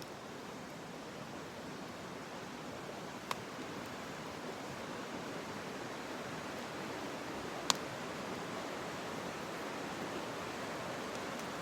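Steady rushing noise, slowly growing louder, with two sharp clicks about four seconds apart.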